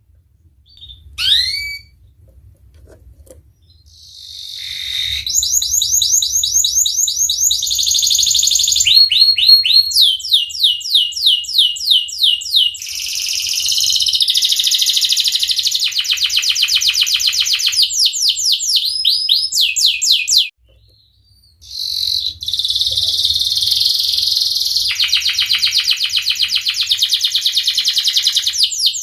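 Domestic canary singing: a few short chirps, then a long song of rapid rolling trills, each a fast run of repeated notes, with a brief break about twenty seconds in before the trills resume.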